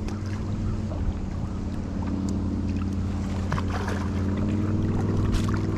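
A boat engine humming steadily at a low pitch, with a few faint ticks over it.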